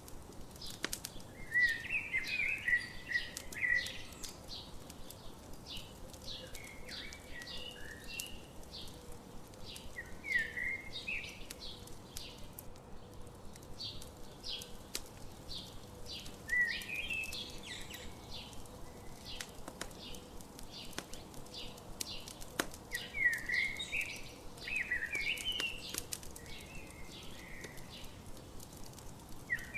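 Songbirds singing short warbled phrases every few seconds, over the steady snapping and crackling of a wood campfire.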